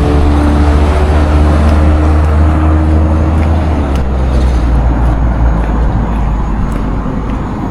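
Motor vehicle running with a steady, loud low rumble of engine and road noise. An engine hum is heard early and fades away about three seconds in.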